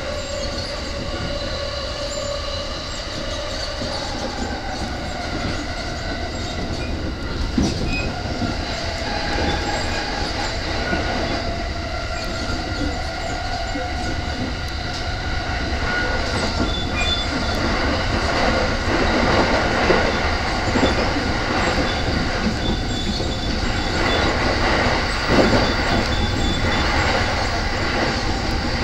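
Inside a JR East E231-series commuter train running at speed: a steady rumble of wheels on rail under a whine of several tones that slowly shift in pitch. A few sharp knocks come as wheels pass over rail joints.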